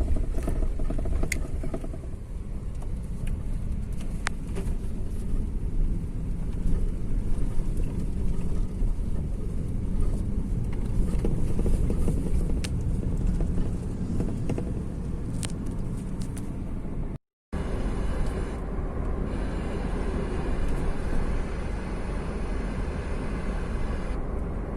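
Steady low engine rumble of a moving vehicle, with a few faint clicks, broken by a brief cut about seventeen seconds in.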